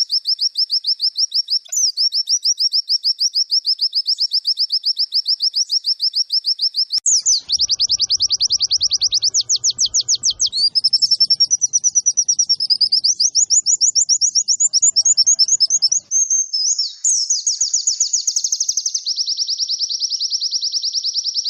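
White-eye (pleci) song from a training recording: a fast, unbroken trill of high, evenly repeated notes, switching to varied, quicker phrases a third of the way in and settling back into a steady trill near the end.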